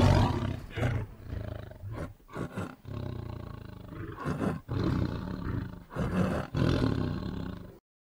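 Tiger growling: the fading tail of a loud roar, then a run of shorter, rumbling growls with brief gaps between them, stopping just before the end.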